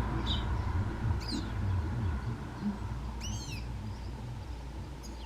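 Atlantic canaries giving a few short, high chirps, about three scattered calls, the last a quick double note, over a steady low rumble.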